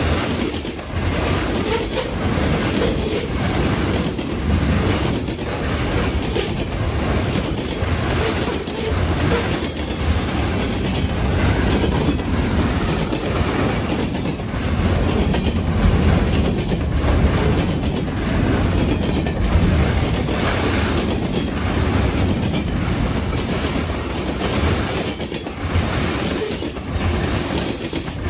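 A BNSF freight train's cars rolling past. Steel wheels click over the rail joints in a steady, repeating rhythm above a continuous low rumble.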